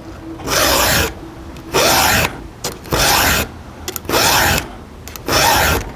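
A round file rasping across the cutter tooth of a chainsaw chain in five even strokes, about one a second.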